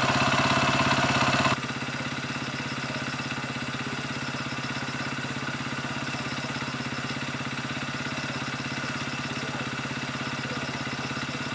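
Kymco KCR125 motorcycle engine idling steadily. It runs louder for about the first second and a half, then drops to a quieter, even idle.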